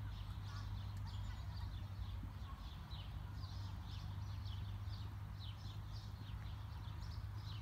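Small birds chirping: many short, high chirps, each falling in pitch, coming one after another, over a low steady hum.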